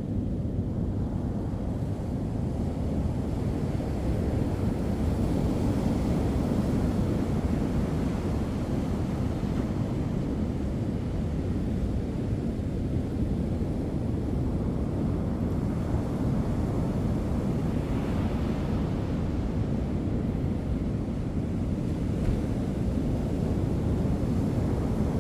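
Ocean surf breaking and rushing, with wind buffeting the microphone: a steady, low rumbling noise.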